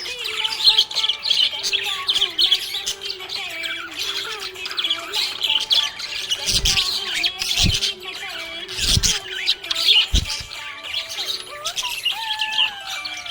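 Budgerigars chirping and warbling nonstop in a dense, rapid chatter. A few short low thumps come between about six and ten seconds in.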